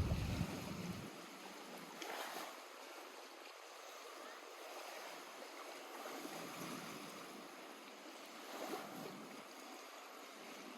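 Small lake waves lapping softly and unevenly at the shore, swelling about two seconds in and again near the end. A low rumble fades out in the first second.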